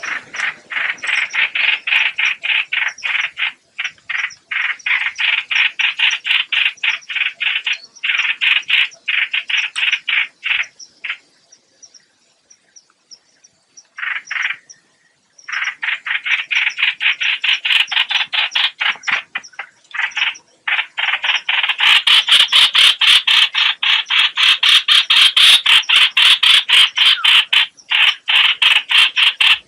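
Recorded lure call of the bird known in Vietnamese as 'hoạch hoạch': long runs of rapid, evenly repeated rattling notes broken by short gaps, louder and fuller over the last third.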